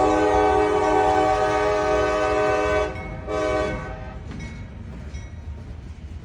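CSX freight locomotive's air horn sounding a chord: one long blast, then a short blast about half a second later, over the low rumble of the moving train.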